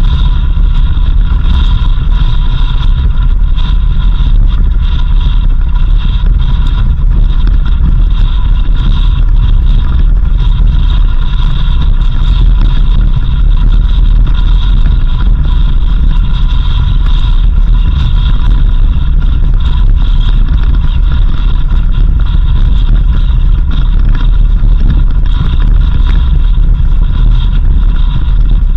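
Vehicle driving on a country road: a loud, steady low rumble of engine and road noise, with a steady high whine running through it.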